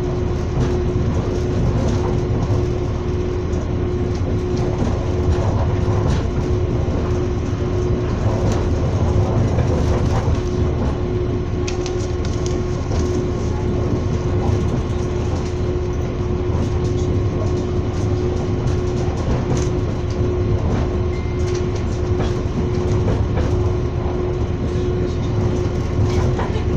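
A train running along the line: a steady rumble of wheels on rails with a constant hum.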